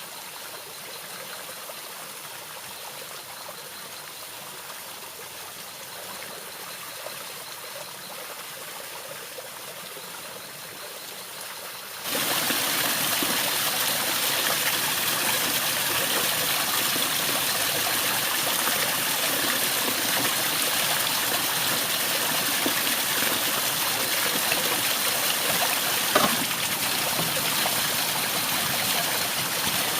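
Running water of a stream, a steady rushing that suddenly becomes much louder about twelve seconds in and stays that way; a single brief knock near the end.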